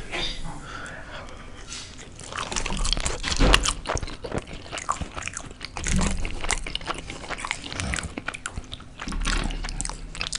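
A person chewing and biting a mouthful of burrito, with many short wet mouth clicks.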